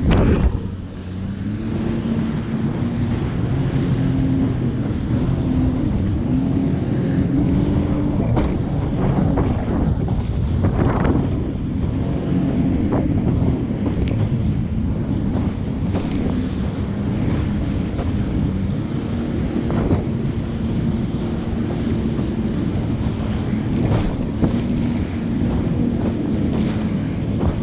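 Jet ski engine running under way, its pitch rising and falling with the throttle over the first several seconds and then holding steady, with wind buffeting the microphone and occasional splashes of water.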